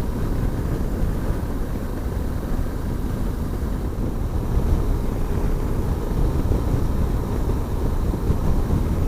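Aprilia motorcycle under way at steady speed, its engine and road noise mixed with wind rushing over the rider's microphone, getting slightly louder near the end.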